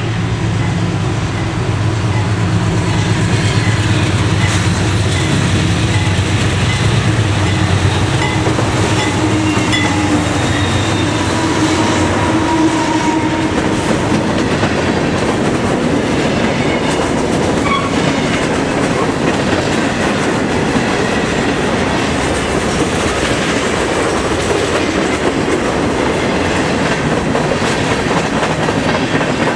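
Amtrak passenger train with P42 diesel locomotives passing close by. The locomotive engines drone for the first several seconds, then the cars clatter steadily over the rail joints.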